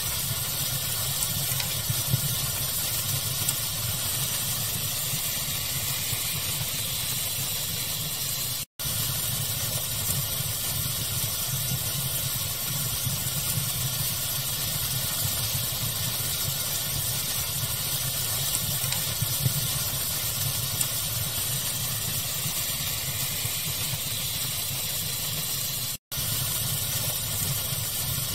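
Steady hiss of pink noise layered with a fireplace fire, with a few faint crackles. The sound drops out for an instant twice, about a third of the way in and near the end.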